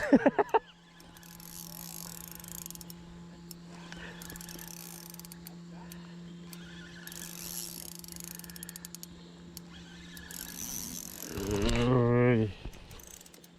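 Small spinning reel being cranked in several short spells, a whirring, clicking retrieve of light line, over a steady low hum.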